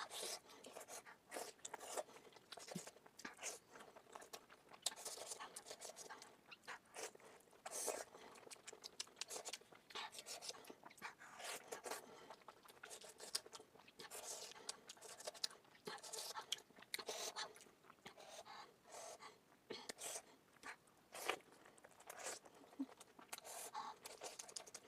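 Chewing and mouth smacks of someone eating momo dumplings: a dense, rapid run of short clicks, sped up to double speed.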